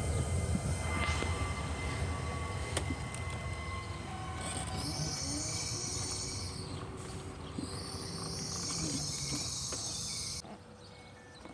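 A train running on the line with a low rumble. From about four and a half seconds a loud high hissing sound joins it, and both cut off suddenly about ten seconds in. Near the end come short, evenly spaced beeping tones.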